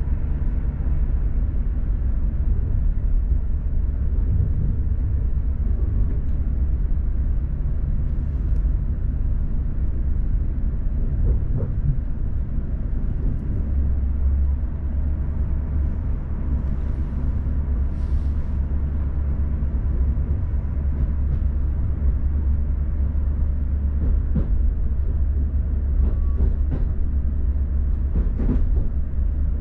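Passenger train running, heard from inside the carriage: a steady low rumble of wheels and running gear on the rails, with a few short clicks near the end.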